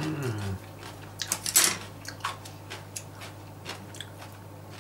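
A person chewing a piece of braised pork trotter, with a short hum that falls in pitch at the start and then scattered wet mouth smacks and small clicks.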